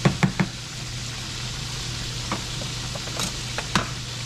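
Chicken fried steak frying in a pan of hot grease, a steady sizzle over a steady low hum. A quick run of four sharp clicks right at the start, and a few single clicks later on, are a utensil knocking against the pans during stirring.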